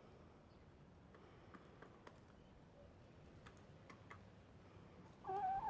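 Faint scattered clicks of a rooster pecking up spilled feed pellets, then the rooster begins clucking near the end.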